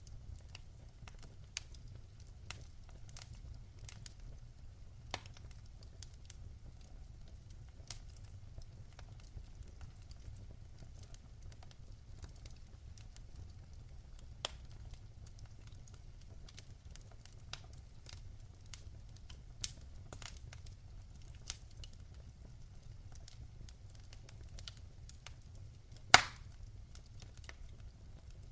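Wood fire crackling in a fireplace: scattered sharp pops and snaps over a low, steady rumble of the flames, with one loud pop near the end.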